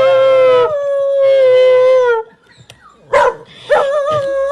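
A dog howling in long, drawn-out howls. One held howl sags slightly in pitch and breaks off about two seconds in. After a short sharp cry, another long howl starts near the end.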